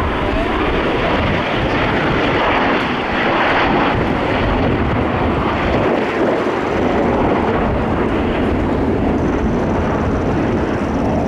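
Aermacchi MB-339PAN jets flying over, their Viper turbojets making a steady, loud rushing jet noise that swells slightly about three seconds in.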